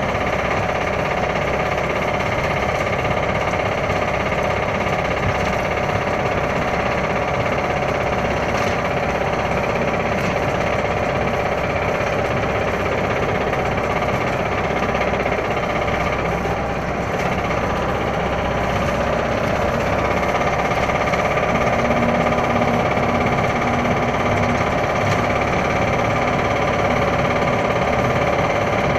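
Toyota Starlet engine running steadily with a rapid, continuous knock, the knocking the owner is worried about.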